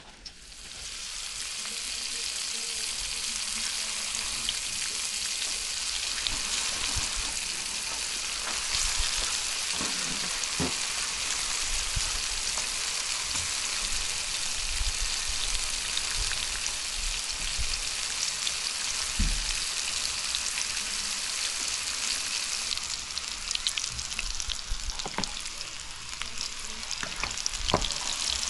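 Breaded fillets shallow-frying in hot oil in a skillet: a steady sizzle that swells within the first second as a fillet is laid into the oil, with a few short pops here and there.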